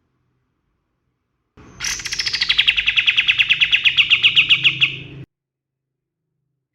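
A kapas tembak bird singing one rapid trill. It opens with a high note that drops, runs on as fast, evenly repeated notes, about nine a second, for about three and a half seconds, and cuts off suddenly.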